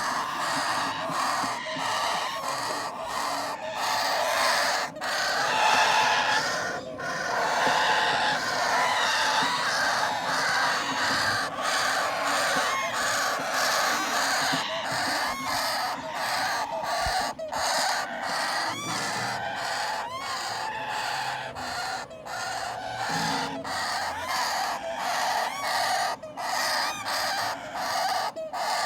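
Parrot chicks giving begging calls during hand-feeding, a continuous dense chatter of harsh calls and clicks.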